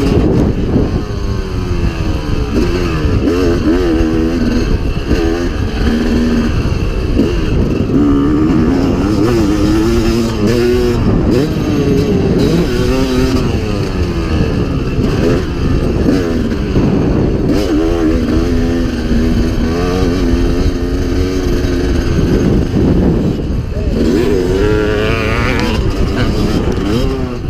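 A motocross dirt bike's engine revving up and falling back again and again as it is ridden around the track, the pitch climbing and dropping every second or two.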